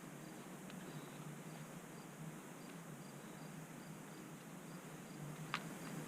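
Faint cricket chirping, about three even chirps a second, over a steady low hum, with a sharp click near the end.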